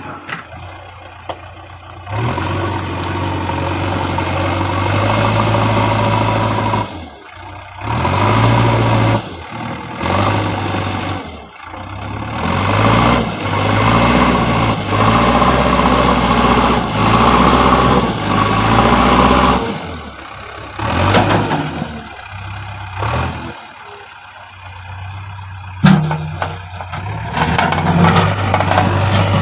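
JCB backhoe loader's diesel engine running and revving up and down as the machine works, with several sudden breaks in the sound and one sharp knock near the end.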